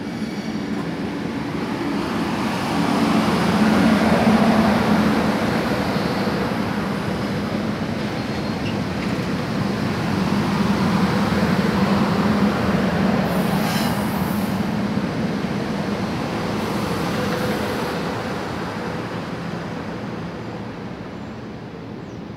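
SEPTA Silverliner IV electric multiple-unit cars rolling past at close range, wheels on the rails with a steady hum under the rumble. It grows louder over the first few seconds, swells again in the middle, then fades as the last car goes by.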